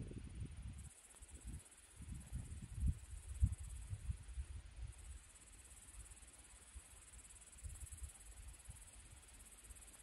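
Insects chirring in a steady high-pitched hiss, with low rumbling gusts during the first half that die away about halfway through.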